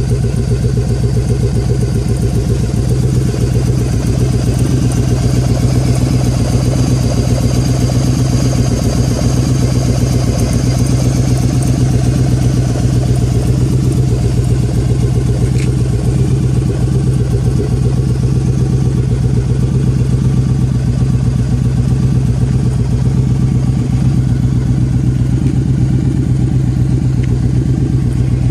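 Yamaha Drag Star 1100 Custom's air-cooled V-twin running at a steady idle through aftermarket Cobra exhaust pipes.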